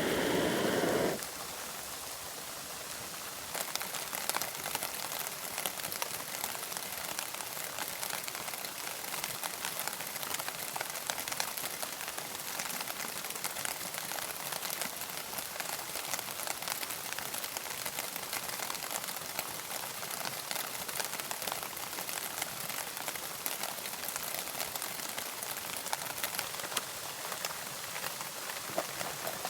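Rain falling, heard as a dense scatter of small drops striking a surface over a steady hiss, which thickens about three seconds in. A louder rushing noise is heard first and stops abruptly about a second in.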